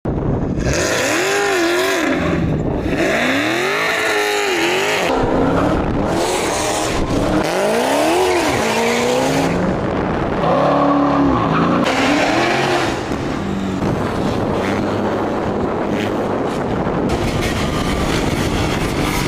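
Dodge Hellcat V8 engines revving hard in repeated rising and falling sweeps, each about a second long. From about two-thirds of the way through, this gives way to a rougher, steadier engine noise.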